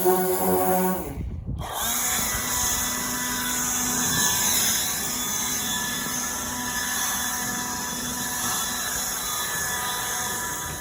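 Power sander running steadily against a truck's body panel, grinding off Bondo filler and paint. Before it, a second of background music breaks off suddenly.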